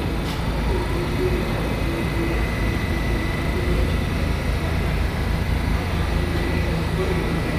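New York City subway train at a station platform, a steady low rumble with a constant high-pitched whine over it.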